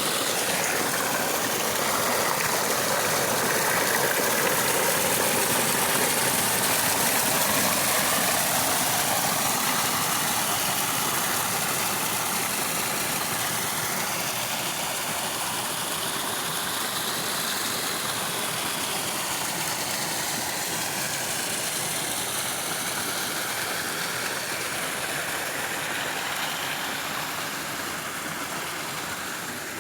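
Running water: a steady rushing hiss with no distinct splashes, easing slightly in level near the end.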